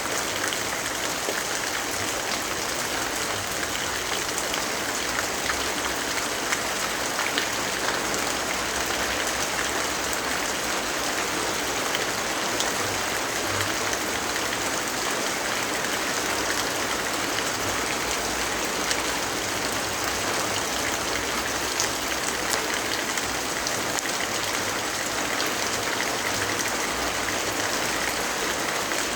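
Steady rain falling: an even hiss with many small scattered ticks of drops throughout.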